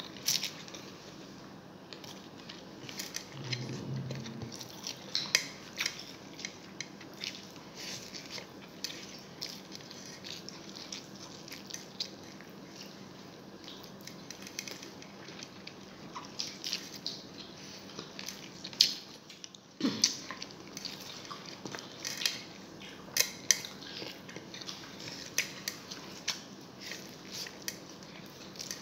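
Close-up eating sounds: a person chewing rice and adobo eaten by hand, with frequent short lip smacks and mouth clicks.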